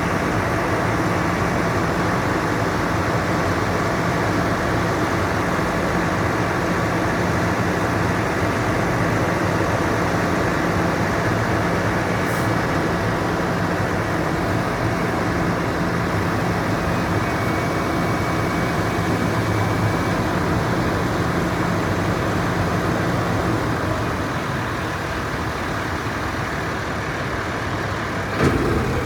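Freightliner 108SD vacuum truck's Cummins ISL diesel running steadily. A short knock comes near the end, after which the running note changes to a different steady pitch.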